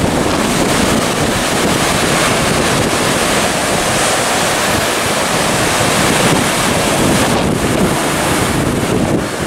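Loud, steady wind buffeting the microphone, a dense rushing noise that covers everything else.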